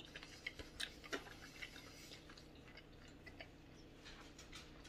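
Faint, scattered crunches and mouth clicks of two people chewing floured fried chicken nuggets, most of them in the first second or so.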